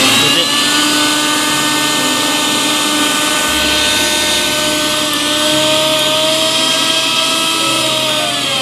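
Mixer grinder motor spinning up to full speed, running with a steady whine and beginning to wind down at the very end. It runs smoothly now that its bearing bush has been replaced, without the noise the failed bush caused.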